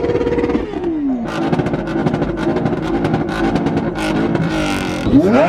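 A loud performance vehicle engine revving. Its revs fall in the first second, then a rapid run of exhaust crackles and pops follows, and near the end it revs up sharply again.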